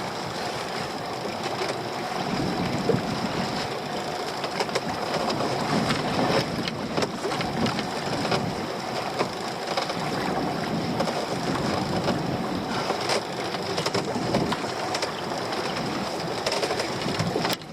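Small fishing boat at sea: a steady motor hum under wind and choppy-water noise, with scattered knocks and rattles from handling on deck.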